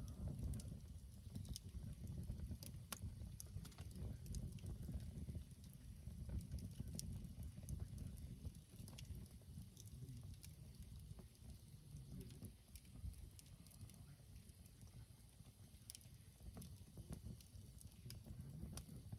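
Wood campfire burning, with scattered sharp crackles and pops over a low rumble.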